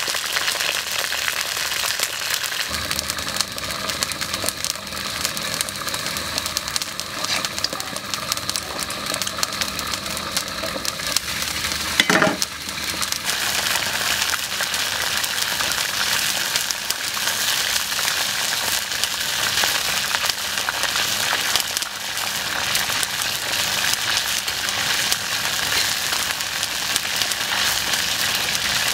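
Whole frogs frying in hot oil in a wok, sizzling and crackling steadily. One brief squeak a little before halfway through is the loudest moment.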